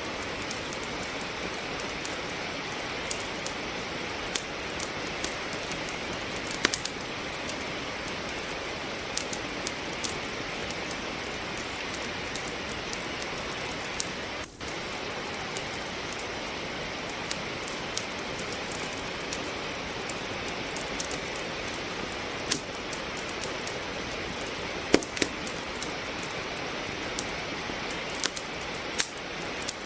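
Steady rain hiss mixed with wood logs crackling in a fireplace: scattered small clicks and a few louder pops, with the sound dipping briefly about halfway through.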